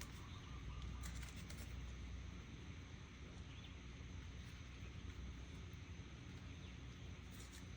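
Faint handling of paper cutouts on a work surface: a few soft rustles and taps about a second in and again near the end, over a low steady hum.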